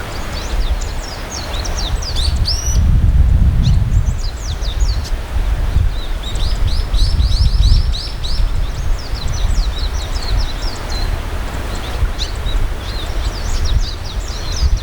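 Barn swallows twittering: a rapid, varied stream of high chirps and warbles, under a low rumble that swells about three and seven seconds in.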